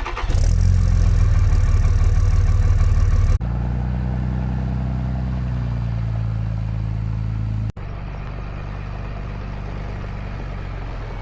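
Cummins-swapped Ram 1500 truck's diesel engine running steadily. The sound is cut abruptly twice, at about a third and two-thirds of the way through, each new section at a lower level.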